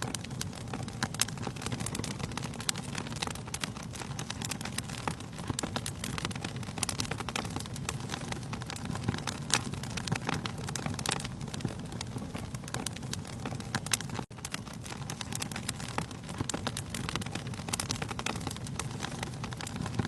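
Wood fire burning in a fireplace: a steady low rush of flames with frequent, irregular sharp crackles and pops from the burning logs. There is a momentary gap about fourteen seconds in.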